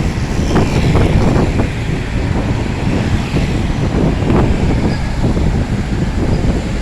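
A motor vehicle running on the road: a steady, loud engine and road rumble, with wind buffeting the microphone.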